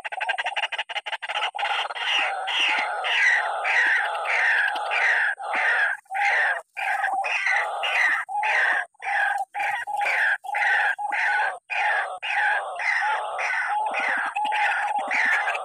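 White-breasted waterhen calling: a harsh two-part call repeated over and over, about twice a second, with only a few brief breaks.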